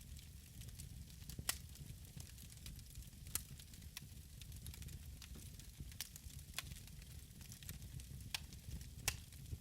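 Wood fire in a fireplace crackling, with sharp pops every second or two over a low steady rumble.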